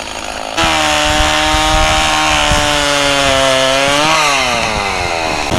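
Stihl 029 two-stroke chainsaw revving to full throttle about half a second in and cutting through dry jack pine, its engine pitch sagging slowly under load. The pitch dips briefly past the middle and rises again near the end. The chain is a little dull.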